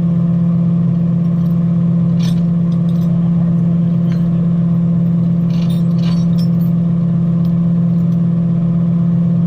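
Freightliner rollback tow truck's engine running at a steady speed, a constant low hum, with a few light metallic clanks.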